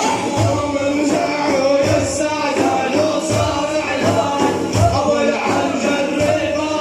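Men singing a religious praise chant (manqaba) over a steady beat of frame drums, the low drum strokes falling about every two-thirds of a second.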